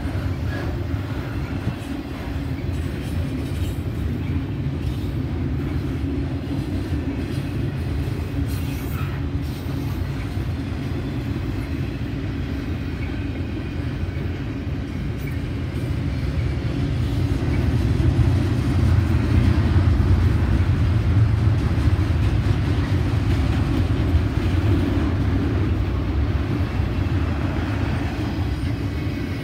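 Double-stack intermodal train's well cars rolling past, a steady rumble of steel wheels on rail that grows louder about two-thirds of the way through.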